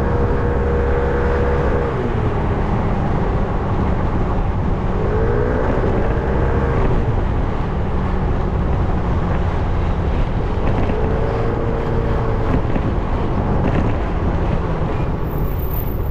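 300cc motorcycle engine running under way, its revs dropping about two seconds in, then climbing and easing off twice more as the throttle is opened and closed.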